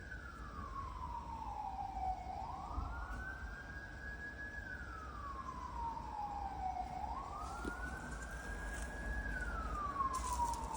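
Wailing siren, its pitch rising, holding high and sliding back down in a slow cycle about three times, with a few faint clicks and rustles near the end.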